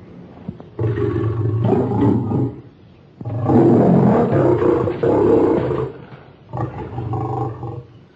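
Cartoon sound-effect lion roars, three in a row: one about a second in, a longer and loudest one from about three to six seconds, and a shorter one near the end.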